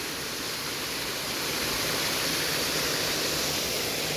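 Small waterfall and mountain stream: steady rushing water, swelling slightly in the middle.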